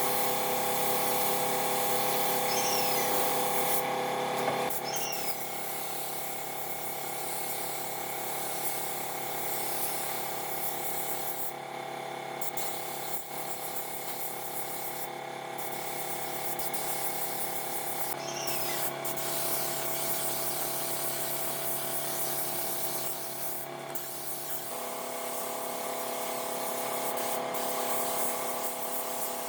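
A power tool running steadily with a hiss and a whine. Its pitch changes abruptly about a third of the way in, again past the middle, and near the end.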